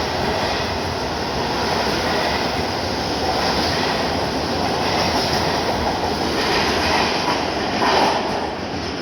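MARTA rapid-transit train running on the rails, a steady loud noise of wheels on track.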